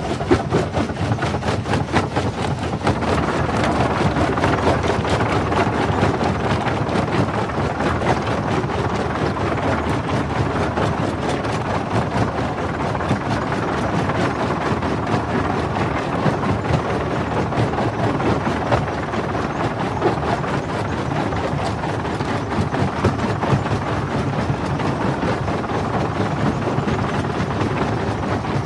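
Jaw rock crusher running, breaking stone: a steady, dense rattle and crunch of many small impacts over the low drone of the machine.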